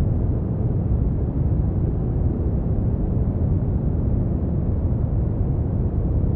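Steady brown noise: an even, deep rumbling hiss with most of its weight in the low end and little treble, unchanging throughout.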